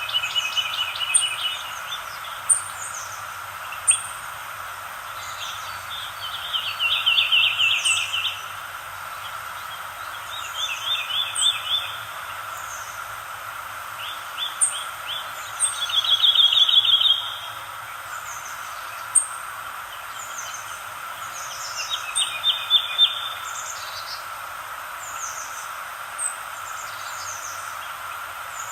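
Songbirds singing: rapid trilled phrases lasting a second or two come every few seconds, mixed with short, high, down-sliding chirps, over a steady background hiss.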